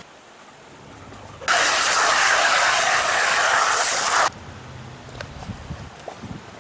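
A spray hissing steadily for about three seconds, starting and stopping abruptly, as a dirty wheel rim is cleaned.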